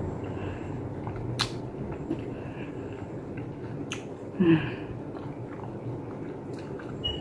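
Soft chewing of a mouthful of orange-fleshed melon, with a few sharp mouth clicks over a steady low background noise. About four and a half seconds in there is a short hummed 'mm', the loudest sound.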